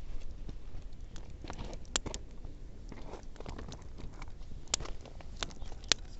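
Wood campfire crackling, with irregular snaps and a few sharper pops.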